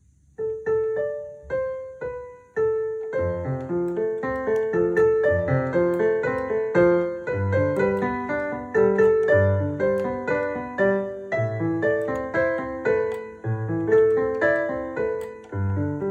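Synthesizer's piano voice playing a slow pop-song cover. A few single melody notes open it, and from about three seconds in a bass line and chords come in under the melody.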